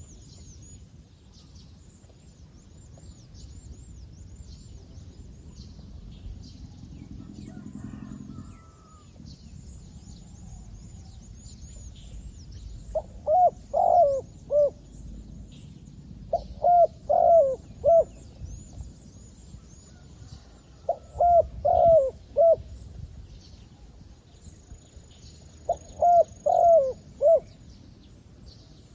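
Decoy zebra dove cooing in four short phrases of several quick, rolling notes each, spaced a few seconds apart. Faint high chirps run underneath.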